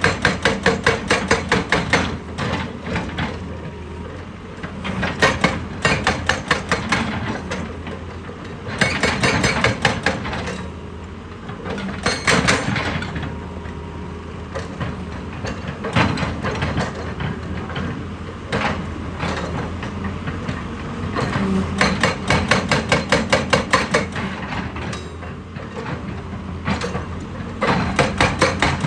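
Heavy machine hammering rock with rapid percussive strikes, about nine a second, in bursts of one to three seconds separated by pauses. A steady diesel engine drone runs underneath.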